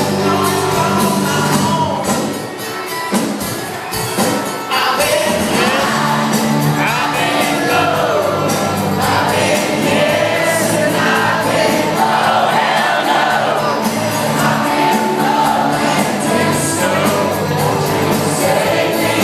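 Live band music with singing, and many voices singing along, recorded loud and unbroken apart from a brief softer stretch a few seconds in.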